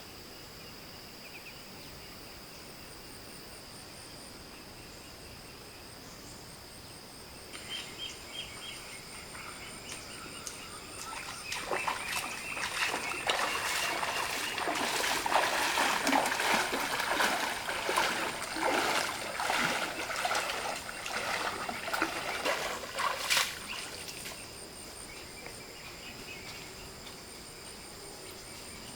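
Water splashing and sloshing in a stream for about twelve seconds in the middle, with many small knocks, over steady insect chirring that runs throughout.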